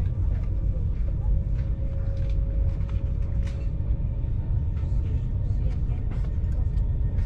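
A moving passenger train heard from inside the carriage: a steady low rumble of the wheels and running gear on the track, with scattered light clicks and rattles.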